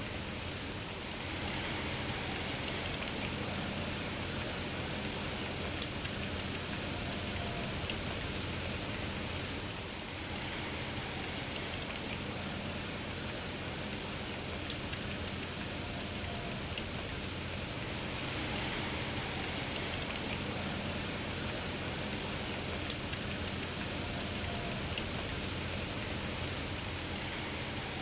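Steady rain falling, an even hiss of drops on a surface. Three single sharp taps stand out, spaced eight or nine seconds apart.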